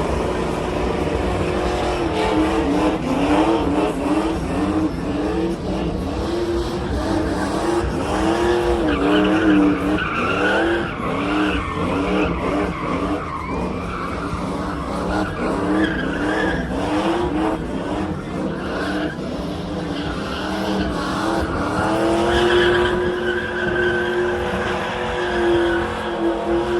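Truck engine revving hard in a burnout, its pitch rising and falling about once a second, then held high and steady for the last few seconds, with tyres squealing and skidding on the pavement.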